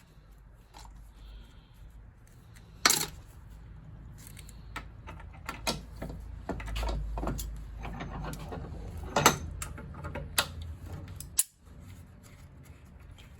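Hand tools and small brass valve parts being handled while a perished O-ring is picked off the valve: a run of sharp metallic clicks and clinks, the loudest about three seconds in and twice around nine to ten seconds, over a low rumble.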